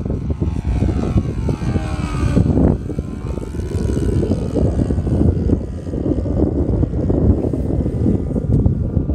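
Cessna 182 single-engine propeller plane running steadily, a loud, rough drone with wind buffeting the microphone. Wavering, sweeping tones ride over it in the first few seconds.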